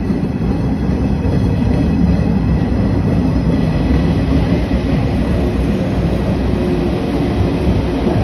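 JR West 227 series 500 'Urara' electric train running close by, a steady loud rumble with a faint high whine above it.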